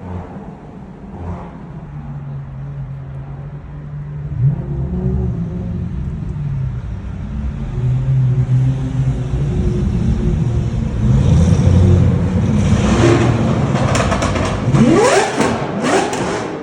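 Sports car engine running, then revving and accelerating hard, its pitch climbing steeply several times near the end with sharp crackles.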